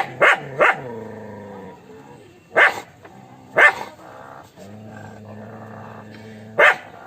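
A dog barking: a quick run of three barks, then three single barks spaced a second or more apart. A low steady hum sits between the later barks.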